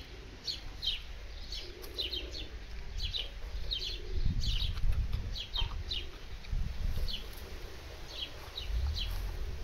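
Birds chirping over and over in quick, short, high notes that fall in pitch, several at a time. A low rumble swells about four seconds in and again near the end.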